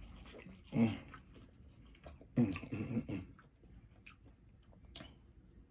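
Chewing and biting on corn on the cob, with two short muffled voiced murmurs through a full mouth, about one and two-and-a-half seconds in, and a couple of light clicks near the end.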